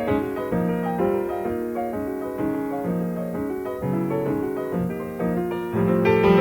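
Jazz piano playing a sequence of sustained chords, swelling louder near the end.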